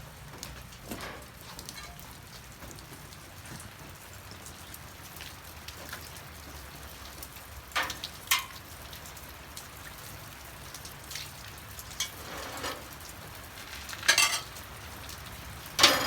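Steady hiss of light rain, with a few short knocks and splashes from meat being rinsed and handled in a pot, the loudest of them near the middle and at the end.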